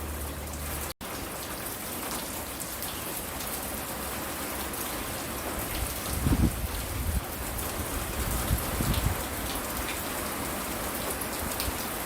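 Steady rain falling on a porch, an even hiss of drops with a few low rumbles around the middle. The sound drops out for an instant about a second in.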